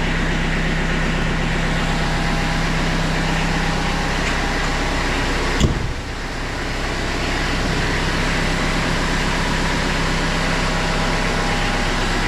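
Diesel tractor engine idling steadily, warming up just after a cold start with the preheater. One sharp knock sounds about five and a half seconds in.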